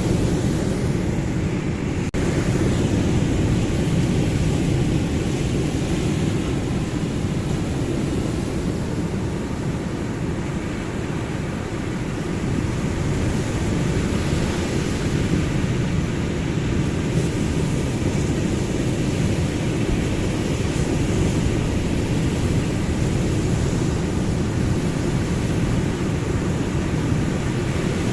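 Ocean surf washing continuously in a steady, deep rumble, easing slightly partway through.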